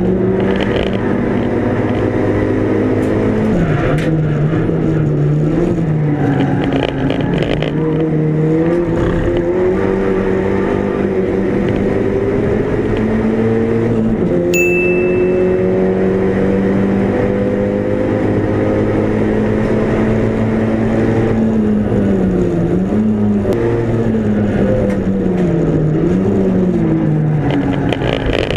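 Mk5 Golf GTi race car's turbocharged four-cylinder engine running hard on track. Its pitch climbs slowly through long pulls, then dips and rises several times near the end as it shifts down and back up.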